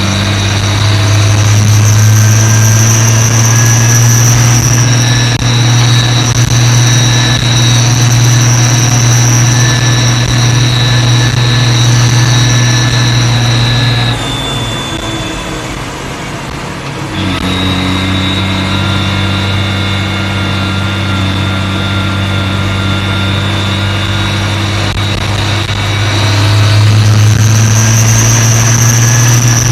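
New Holland T6030 tractor engine running with a steady high-pitched turbocharger whistle over the engine note. About halfway through the engine eases off and the whistle fades out for a few seconds, then both come back up.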